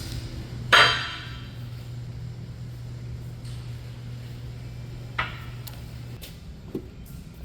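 Metal cylinder parts clinking as they are handled on a workbench: a sharp, ringing clink about a second in, a lighter one around five seconds and a small tap near the end. A steady low hum runs under them and stops about six seconds in.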